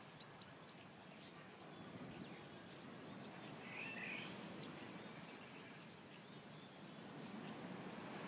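Faint outdoor ambience: a steady low background noise with scattered short bird chirps, and one curling bird call about four seconds in.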